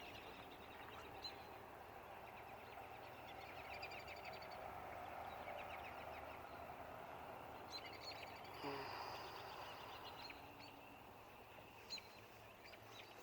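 Faint outdoor ambience with distant birds chirping and trilling now and then over a soft steady hiss.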